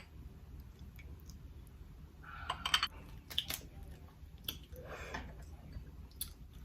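Soft eating sounds: scattered mouth clicks and smacks with brief bouts of chewing.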